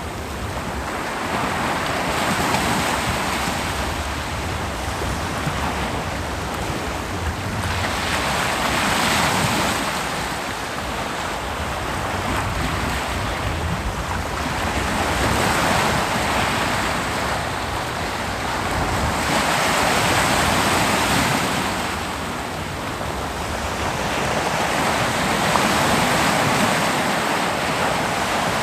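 Ocean waves breaking and washing onto a beach, a continuous surf roar that swells and ebbs every five to seven seconds, with some wind on the microphone.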